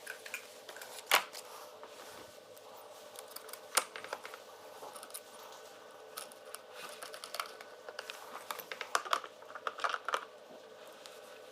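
Scattered sharp clicks and light taps of small hard parts being handled, with a cluster of quicker clicks near the end, over a faint steady hum.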